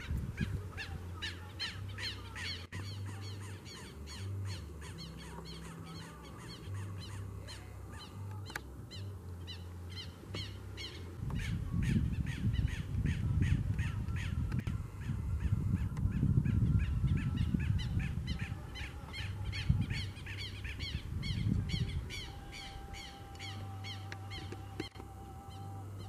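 A bird's harsh, caw-like calls repeated rapidly, about three a second. Gusts of wind buffet the microphone from about the middle and are the loudest thing for several seconds.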